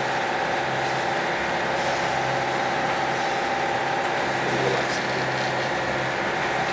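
A sailboat's engine running steadily while motoring in calm conditions: a constant, even thrum with no change in speed.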